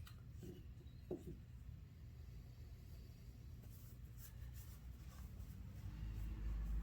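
Faint scratching and a few light clicks of small carburetor parts being handled and picked at by hand, with a brief squeak about a second in.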